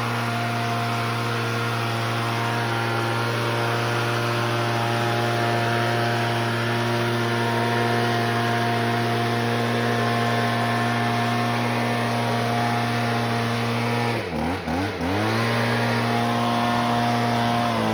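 Stihl BG50 handheld leaf blower's 27.2 cc two-stroke engine running steadily at high throttle. About fourteen seconds in the throttle is let off and opened again a few times in quick succession, the pitch dipping and climbing back before it settles again.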